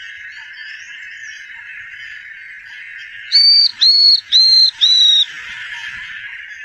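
A small bird whistling four loud, clear notes in quick succession about halfway through, each note dipping slightly at its end. Under it runs a steady high-pitched buzzing hiss.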